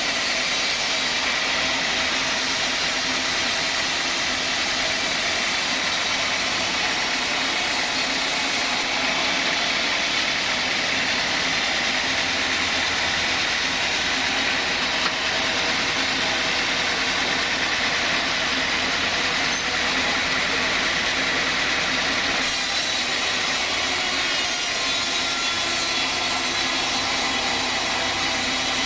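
Sawmill saw machine running steadily, its tone shifting slightly about nine seconds in and again near the end.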